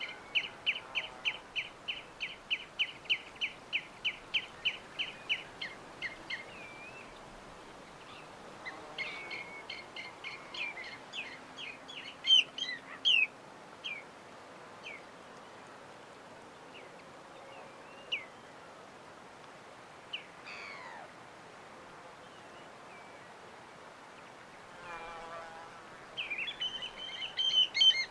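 Small birds chirping. A run of evenly repeated high chip notes, about three a second, lasts the first six seconds. Scattered varied chirps and a falling whistle follow, then a short lower call and a fast burst of chirping near the end, over a faint steady hiss.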